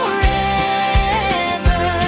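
Upbeat children's song: a singer holds one long note over a steady kick-drum beat.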